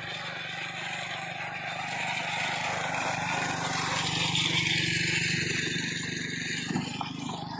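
A vehicle engine running steadily under a broad rushing noise, growing louder toward the middle and easing off near the end.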